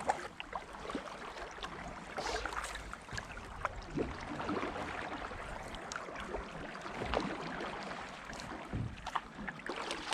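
A kayak being paddled: paddle strokes dipping and splashing in the water, with scattered sharp clicks and knocks.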